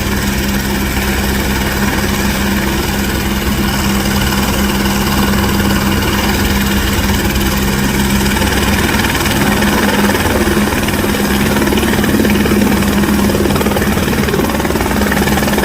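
Helicopter running steadily, its turbine and rotors making a loud, constant hum with a steady whine above it.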